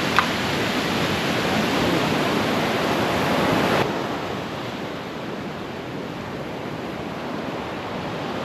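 Ocean surf washing onto the beach, a steady rush of noise that drops suddenly and stays quieter about four seconds in.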